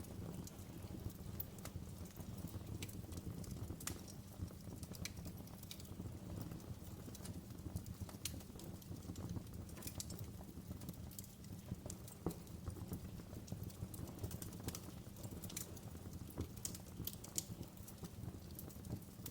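Wood fire in a fireplace crackling: irregular sharp pops and snaps over a steady low rumble of the burning flames.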